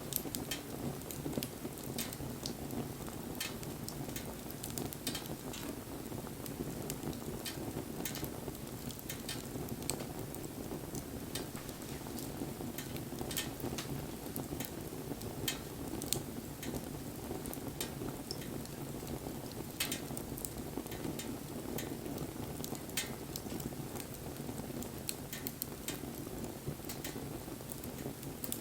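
Wood campfire burning, with irregular sharp crackles and pops over a steady low rush of the flames.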